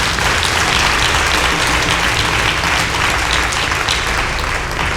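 A congregation applauding, a dense wash of many hands clapping that eases slightly near the end.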